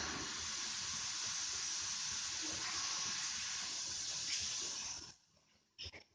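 Water rushing through the kitchen sink's supply plumbing with a steady hiss once the water is turned back on, cutting off suddenly about five seconds in; two short knocks follow near the end.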